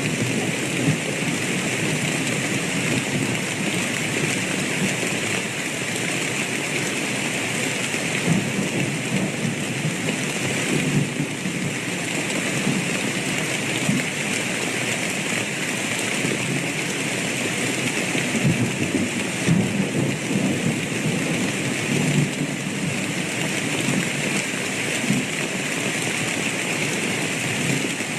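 Steady heavy rain with low rumbles of thunder underneath.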